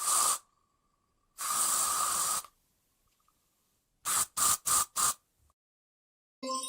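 Bursts of hissing: a short one, then one lasting about a second, then four quick ones in a row.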